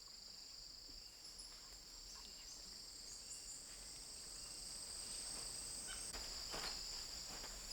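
Rainforest insect chorus: a steady, high-pitched, two-toned drone, with a few faint short chirps over it.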